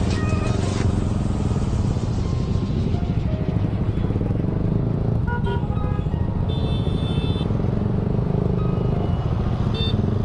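Motorcycle ride through traffic: a steady engine and road rumble, with a brief high tone about two-thirds of the way through.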